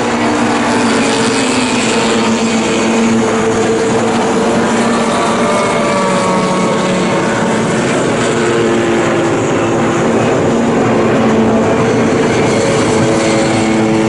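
Formula Junior racing-car engines running hard, several engine notes overlapping and slowly shifting in pitch.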